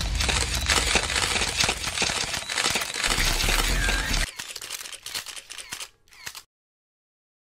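SLR camera shutters clicking in quick succession, many clicks close together over a low hum. The clicks thin out and grow quieter after about four seconds, and the sound cuts off to complete silence near the end.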